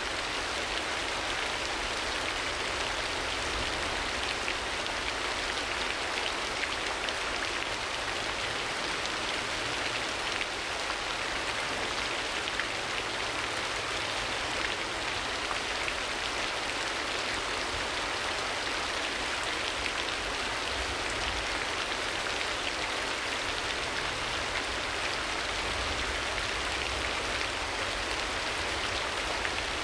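Steady, even rain falling on a surface, a continuous hiss of many drops with no let-up.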